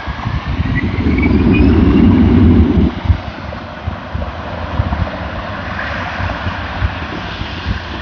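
Jet airliner engines running at takeoff power, a steady rushing noise with a faint rising whine in the first second or so. A heavy low buffeting of wind on the microphone dominates for the first three seconds, then stops abruptly.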